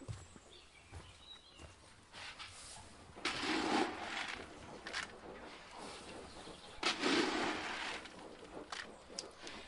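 Pigs giving rough, breathy grunts: two longer ones about three and seven seconds in, with a few short sharp clicks between.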